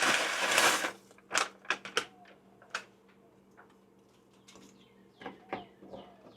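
Broken dried instant noodles tipped from their crinkly plastic packet into a pot of hot water: a loud rustle for about a second, then several light clicks and taps, with a few fainter ticks near the end.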